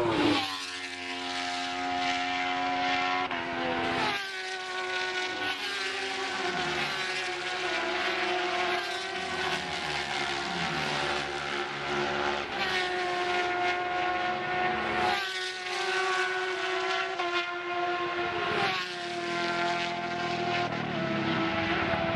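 Superbike racing motorcycles at high revs on the track, one bike after another, with fresh engines coming in suddenly several times and pitch stepping and sliding as they change gear and pass.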